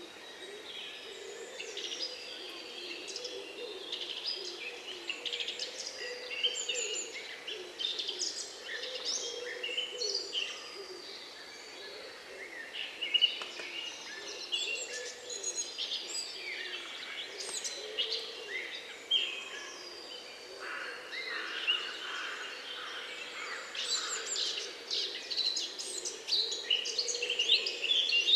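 Many birds singing and calling at once: a dense chorus of overlapping chirps and whistles, with a low steady drone underneath.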